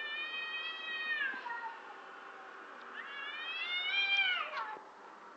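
Cats yowling: two long, drawn-out wailing calls, the first held steady and dropping away about a second in, the second rising and then sliding down, ending near the end.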